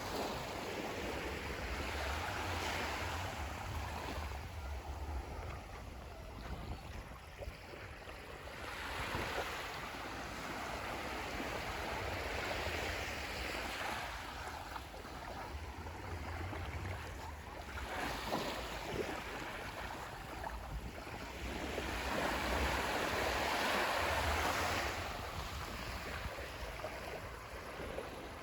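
Small waves washing onto a sandy beach, the surf rising and falling in swells every several seconds, with a low wind rumble on the microphone.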